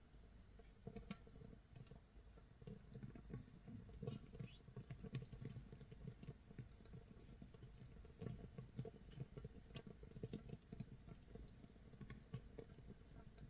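Makgeolli starter fermenting in a jar about 24 hours in: a faint, dense, irregular crackle and patter of carbon dioxide bubbles popping at the surface of the actively fermenting mash, like light rain or grilling nurungji.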